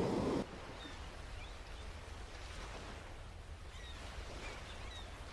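Quiet seaside outdoor ambience: a low steady rumble with faint, short bird chirps every second or so. A louder sound cuts off abruptly about half a second in.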